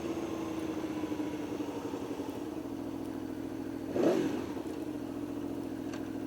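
Motorcycle engine idling steadily, its pitch settling a little lower over the first couple of seconds. A brief louder swell comes about four seconds in, rising and falling in pitch.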